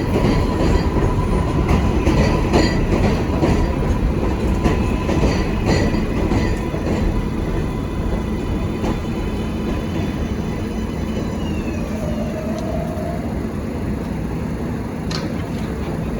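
New York City subway train running on the track: a steady rumble with wheel clicks over rail joints in the first half, then a whine that falls in pitch past the middle.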